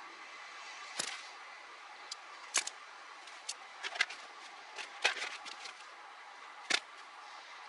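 Scattered sharp clicks and snips from stripping and handling small-gauge wires at a car's ignition harness, about six of them over a steady faint hiss.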